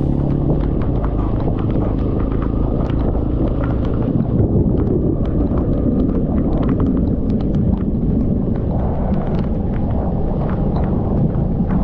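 Motorcycle riding in heavy typhoon rain: a steady low rumble of wind and engine on the microphone, with many small sharp ticks of raindrops striking it.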